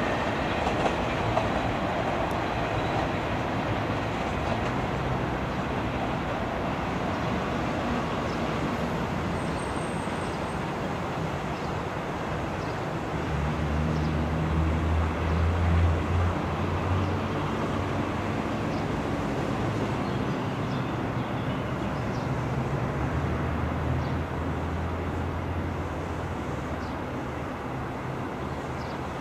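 Passenger train rolling over the tracks and points of a rail yard: a steady rumble of wheels on rails, with a low drone that swells up in the middle and again later.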